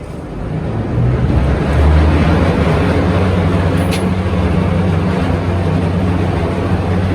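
Cruise boat's engine swelling up over the first couple of seconds, then running steadily with a deep, low hum. A single sharp click about four seconds in.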